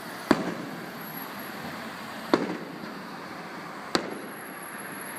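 Aerial fireworks shells bursting overhead: three sharp booms about two seconds and then a second and a half apart, each trailing off in an echoing rumble, over a steady background hubbub, recorded on an iPhone microphone.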